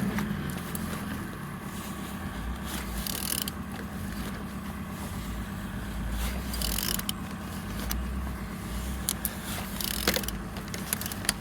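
DV6C 1.6 diesel engine being turned over by hand, with scattered mechanical clicks and knocks several times over a steady low hum; it turns freely with full compression.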